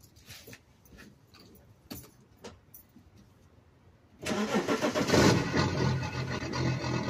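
BMW E60's M57 straight-six diesel engine cold-starting: it catches suddenly about four seconds in, flares, then runs lumpy and uneven. The rough first seconds of running come from a faulty glow plug module, which the owner found to be the cause after new glow plugs did not cure it.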